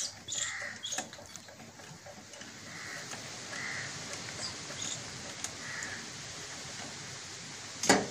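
Small birds chirping in the background, mixed with faint clicks of hand tools working on a tractor engine, and one louder sharp knock near the end.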